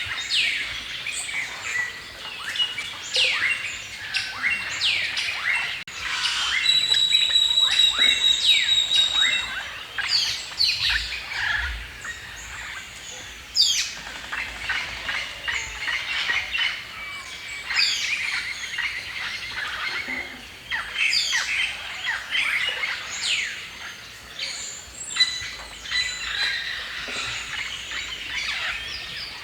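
Several songbirds chirping and singing together in quick, sweeping notes. About seven seconds in, one bird holds a clear, steady high whistle for a couple of seconds.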